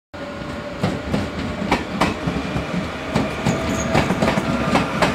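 NS VIRM double-deck electric multiple unit passing close by, its wheels clacking irregularly over rail joints and points, with a faint steady whine under the rumble.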